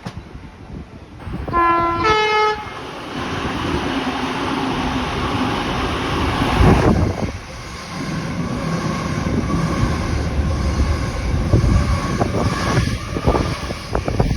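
Sydney electric train sounding two short horn notes, a lower then a higher one, about two seconds in. It then runs past with a loud steady rumble of wheels on rails.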